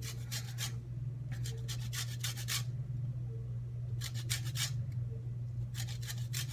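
Lemon being zested on a grater: bouts of quick rasping strokes, each lasting about a second, with short pauses between, over a steady low hum.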